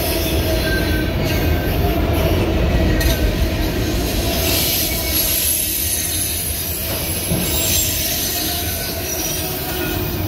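Autorack freight cars rolling slowly past: a steady low rumble of steel wheels on the rails. A high, thin wheel squeal joins about four seconds in.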